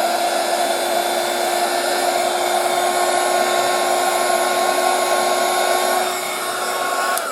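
Small electric blower running steadily, its motor whine holding one pitch over a steady rush of air, then switched off near the end, the whine falling away.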